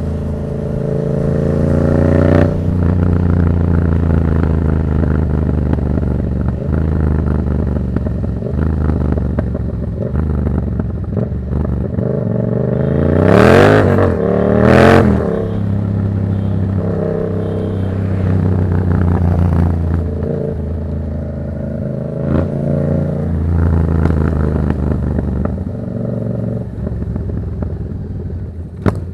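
Yamaha MT-07's parallel-twin engine through a Black Widow aftermarket exhaust, running steadily while riding, with two quick loud revs about halfway through.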